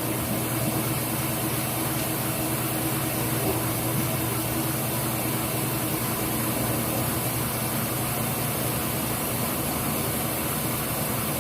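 Kitchen tap running steadily into a large stockpot in the sink, filling it with water for chicken broth.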